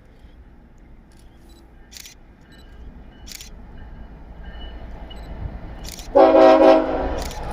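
A locomotive horn sounds one short blast about six seconds in, over the low rumble of an approaching train that grows louder. Camera shutter clicks come a few times before and around it.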